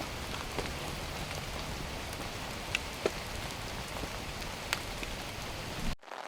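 Steady rain falling, with a few louder single drops tapping now and then. The sound cuts off abruptly near the end.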